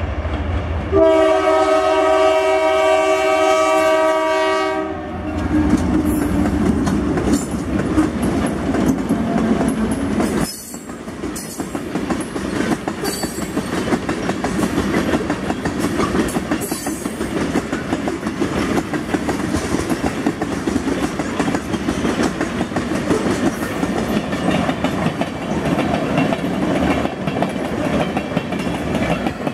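Freight train's diesel locomotive horn sounds one long chord of about four seconds as the train reaches a grade crossing: the crossing warning. The locomotives rumble past, then a long string of loaded tank cars rolls by, wheels clacking over the rail joints.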